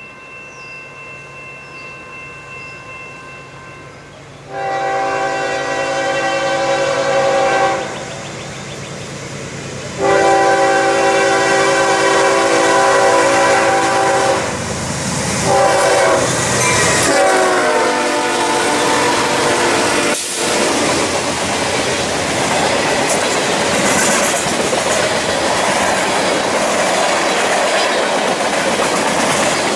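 Freight locomotive's air horn sounding faintly in the distance, then several long blasts as the train approaches, the last one dropping in pitch as the locomotive passes. The horn then gives way to the steady rolling clatter of hopper cars going by close at hand.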